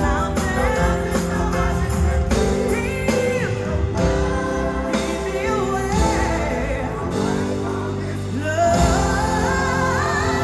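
Live gospel music: singers with a band, sung lines over sustained chords and a steady low end.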